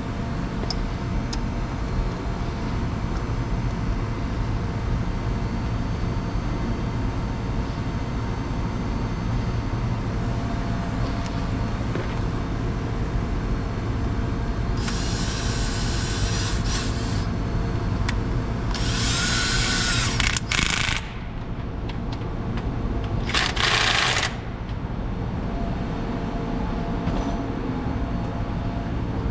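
A steady mechanical hum throughout, with three bursts of a power tool such as a drill or impact driver in the second half. The bursts are each one to two and a half seconds long and whine high.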